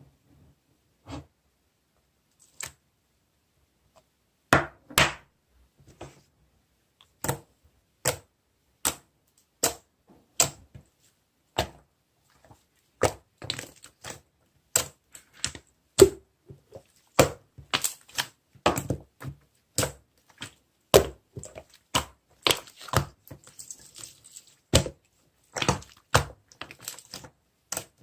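Irregular sharp clicks and knocks, a few at first, then coming faster and more densely, several a second in the second half.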